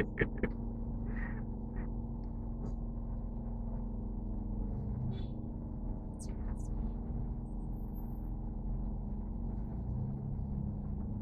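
Steady engine and road drone inside a moving truck's cab, with a constant low hum.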